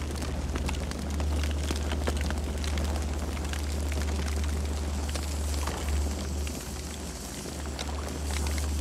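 Campfire burning, with frequent small crackles and pops of burning wood over a steady low rumble of the flames.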